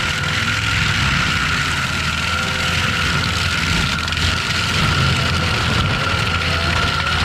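ASV RT-120F compact track loader running a forestry mulcher: steady engine and a high, constant whine from the spinning mulcher head.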